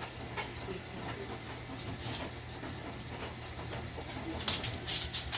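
Steady low hum with faint hiss, and a quick cluster of short scuffing or crunching noises about four and a half seconds in.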